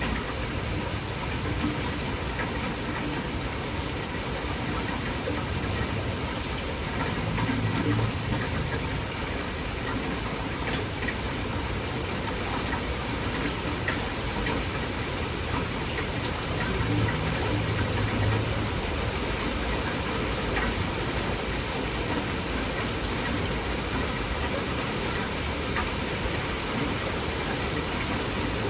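Heavy rain falling steadily, with a low rumble swelling twice, about eight and seventeen seconds in.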